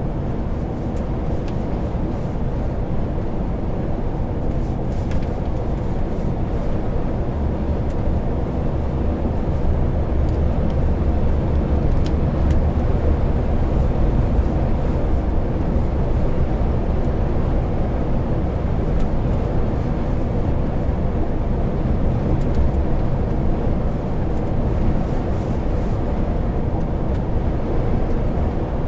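Heavy truck driving along: a steady low diesel drone mixed with road noise. The deep engine hum swells for several seconds about a third of the way in, then settles back.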